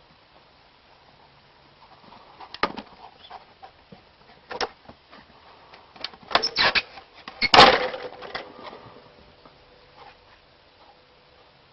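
A series of scattered knocks and taps at irregular intervals, the loudest a cluster about seven and a half seconds in.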